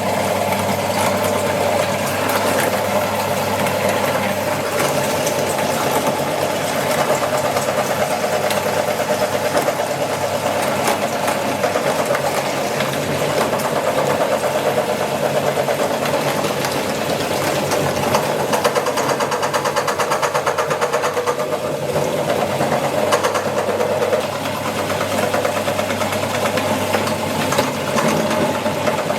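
Electric meat grinder running steadily as it grinds chicken, a constant motor drone that switches on abruptly at the start.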